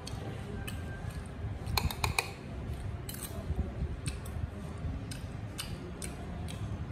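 Chewing a mouthful of small shrimp: irregular sharp crunchy clicks, with a quick cluster of louder ones about two seconds in.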